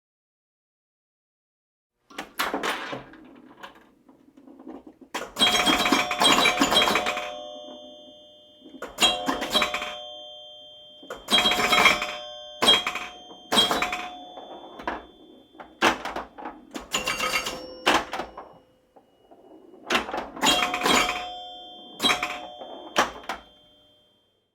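A bell rung in repeated clattering bursts, several times over. Many of the bursts leave ringing tones that linger and fade. It starts about two seconds in, after silence.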